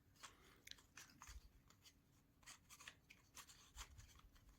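Near silence with faint, scattered light clicks and rubs of thin basswood model parts being handled and pressed into place.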